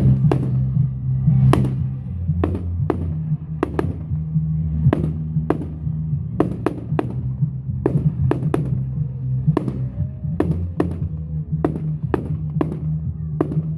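Fireworks exploding in quick succession, about two sharp bangs a second, over a steady low music bed.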